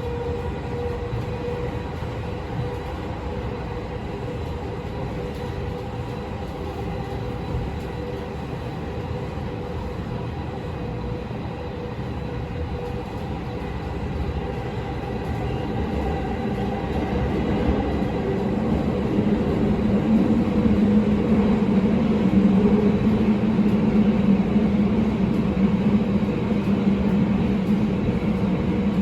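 Tokyo Metro 16000 series subway train running between stations, heard from inside the car: steady rumbling running noise with a faint held tone. About halfway through it grows louder, and a lower hum builds and stays strong.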